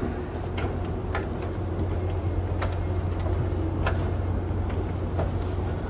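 Steady low hum and rumble of a moving train heard from inside the car, with a few light clicks and rattles now and then.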